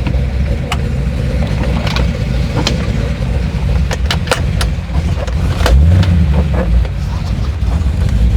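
454 big-block V8 idling with a steady low rumble and a brief louder surge about six seconds in. Short sharp clicks and knocks sound over it now and then.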